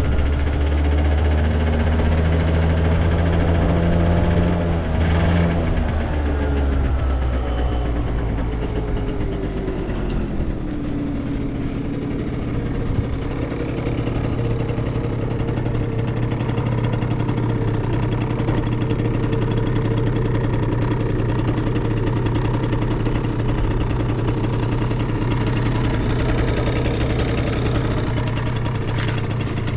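Yamaha Vino two-stroke single-cylinder scooter engine running at raised revs, which fall away over a few seconds to a steady idle for the rest of the time. It runs with no abnormal noise.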